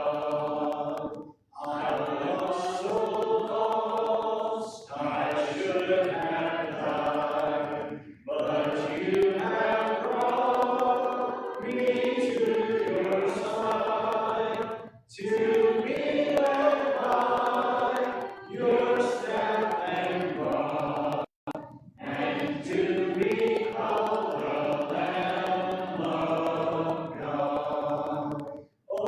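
A church congregation singing a hymn together, a cappella without instruments, in long phrases with brief pauses for breath between them.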